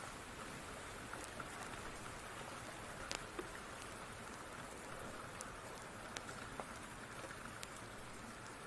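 Steady rain with scattered sharp pops and crackles of a wood fire burning in a fireplace.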